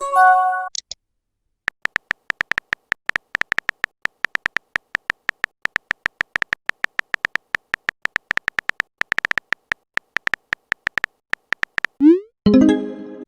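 Rapid, irregular electronic clicks with total silence between them, with a rising synthetic sweep and a brief cluster of steady electronic tones at the start and again near the end.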